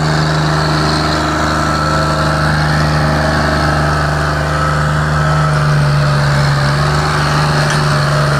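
John Deere 5055 tractor's diesel engine running steadily at an even speed, a constant low hum with no revving.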